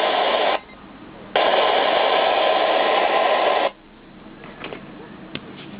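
Grundig Yachtboy 80 portable radio's speaker hissing with static between stations. The hiss cuts out twice, briefly about half a second in and again a little past three and a half seconds. Faint chirps and a click follow near the end.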